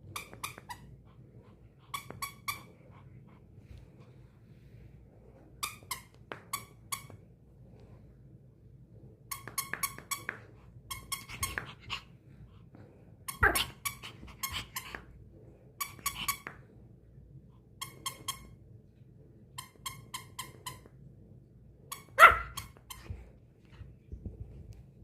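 A squeaky star-shaped dog toy squeaked in quick runs of three to five squeaks every second or two as a Spitz dog plays with it. Twice a single louder sharp sound stands out, a bark, about halfway through and near the end.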